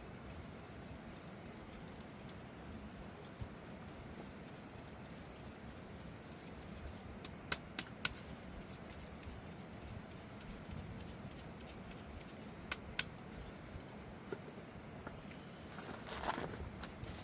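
Faint steady background noise with a few sharp clicks scattered through the middle and a short rustle near the end.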